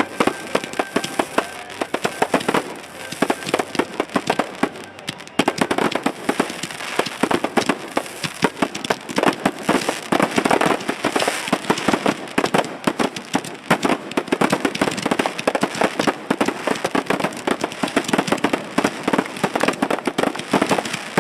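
Fireworks show: a dense, continuous barrage of bangs and crackling, many reports a second with no pause.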